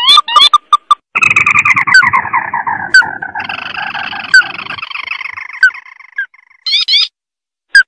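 Crake (burung tikusan mata merah) calling from a bird-lure recording. It gives a run of short, rising chip notes, then from about a second in a long, fast trill that slides down in pitch for several seconds, ending with a few separate notes.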